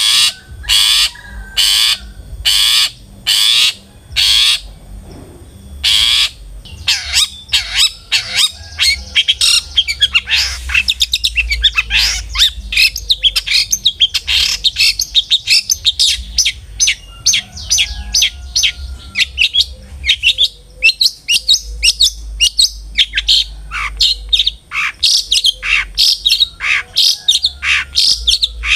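Long-tailed shrike (cendet) calling. First comes a run of harsh, evenly spaced calls, a little under two a second, for about five seconds. After a short pause it breaks into a fast, continuous chattering song of many short notes.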